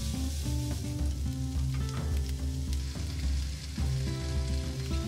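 Diced onion and red pepper sizzling in a frying pan, with background music playing over it.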